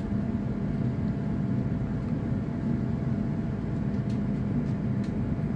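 C2C Class 720 electric multiple unit running along the line, heard from inside the carriage: a steady low rumble with an even hum, and a few faint clicks.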